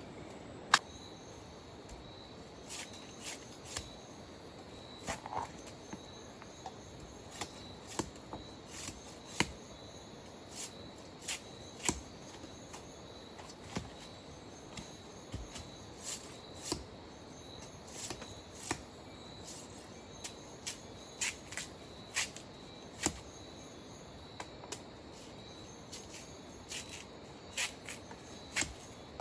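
Steady high-pitched insect drone, with irregular sharp clicks and taps about once or twice a second over it.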